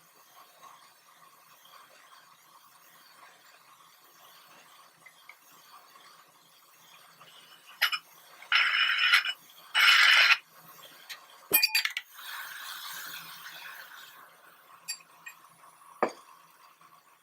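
Glass clinking and ringing in two short bursts about eight and ten seconds in, then a sharp snap and, near the end, a lighter click.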